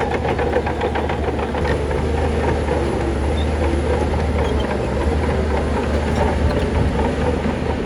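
Heavy diesel construction machinery running steadily: a constant low engine drone with some light clatter over it.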